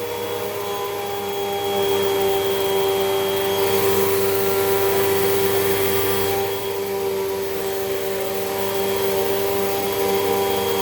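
Hoover WindTunnel 2 Rewind upright vacuum cleaner running, a steady motor whine at one pitch over a rushing of air, getting a little louder about two seconds in and dipping briefly near the middle.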